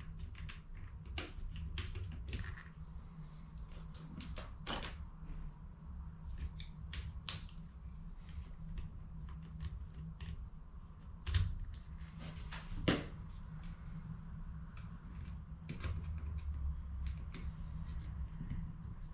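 Hands working on HP CE285A laser toner cartridges: scattered light clicks and knocks of plastic parts being handled, with two louder knocks a little past the middle, over a low steady hum.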